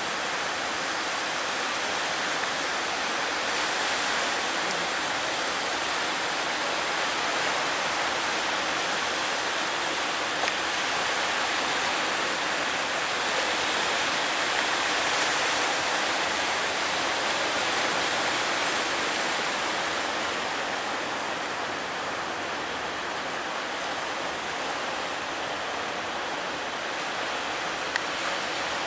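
Continuous roar of heavy surf breaking at a river mouth, swelling and easing slowly with no distinct individual crashes.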